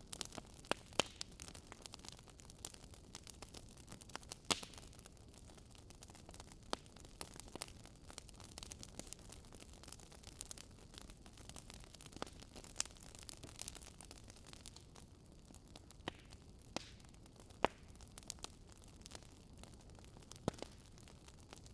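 Campfire burning: wood crackling with scattered, irregular sharp pops over a faint steady hiss.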